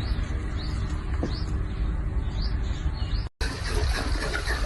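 A bird chirping over and over, one short call roughly every half second, over a steady low hum. The chirping cuts off abruptly about three seconds in, and a noisier, busier sound follows.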